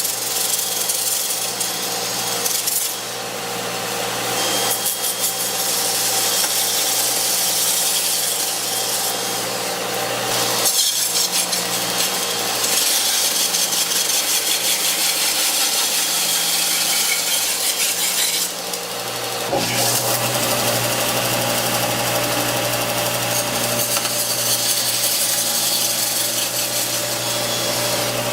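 Belt sander running, with the hiss of wood being ground down as strips spun by a drill are fed through a dowel-making jig. The sound changes a few times, most noticeably about 19 seconds in, as the feed shifts.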